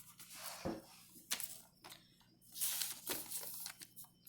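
Pencil and eraser work on a paper worksheet: short bursts of scratching and rubbing on paper, with a little rustling.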